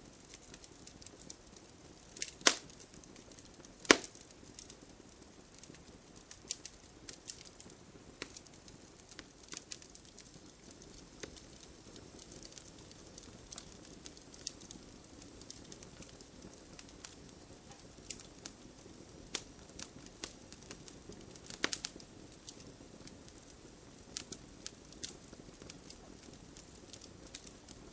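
Wood fire crackling: irregular small pops and snaps over a soft hiss, with two louder pops at about two and a half and four seconds in and another cluster a little past twenty seconds.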